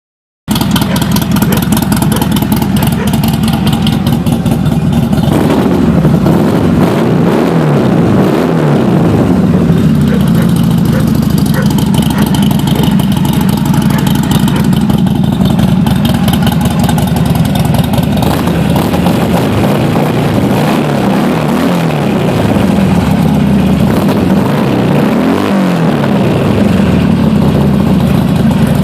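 2009 Buell XB12R's air-cooled V-twin idling loudly through an aftermarket D&D exhaust, revved up and back down in short blips several times, about six to nine seconds in and again around twenty-one and twenty-five seconds in.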